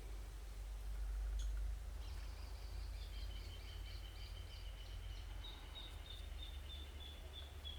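A bird calling a run of short, high, evenly repeated notes, about three a second, starting about two seconds in, over a steady low rumble.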